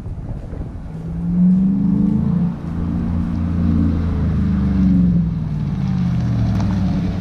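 2016 Chevrolet Silverado's V8 running through a budget catback exhaust with a Dynomax Race Mini Bullet muffler and turn-down tip, pulling under acceleration. The deep exhaust note rises about a second in, dips briefly halfway through, then climbs again.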